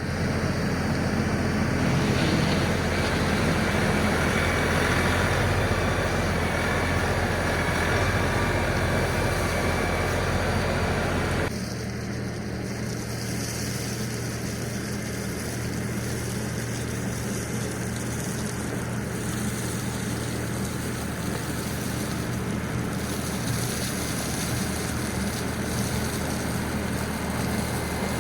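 LS MT357 tractor's diesel engine running steadily under work. About a third of the way through the sound changes abruptly, becoming a little quieter with less deep rumble.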